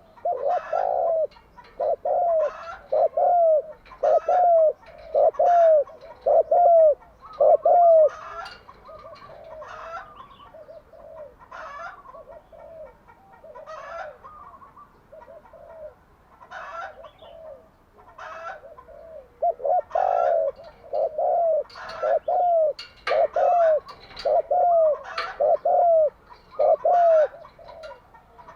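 Spotted dove cooing: two long runs of loud, evenly spaced coos, each note rising and falling, the first at the start and the second from about two-thirds in, with fainter coos between.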